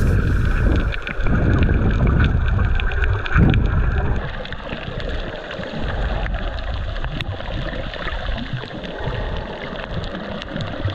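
Water splashing and gurgling, with wind buffeting the microphone into a heavy rumble.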